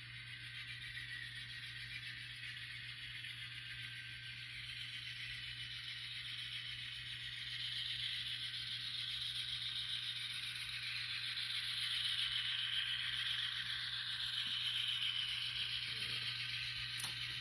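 An N scale model train running along the track: a steady rattle of small wheels on the rails and motor noise that grows louder as it nears, over a steady low hum.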